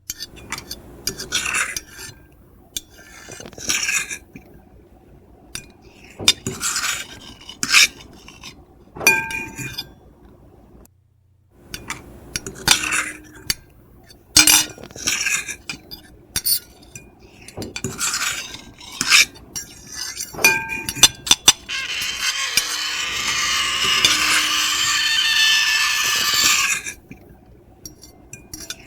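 Metal fork and knife scraping and clinking on a plate in short, irregular strokes, some with a brief squeal. About eleven seconds in there is a short silent gap. Near the end comes one long continuous scrape lasting about five seconds.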